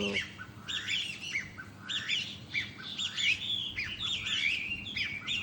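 A lively chorus of wild songbirds chirping busily, with overlapping, quick, repeated chirps and calls.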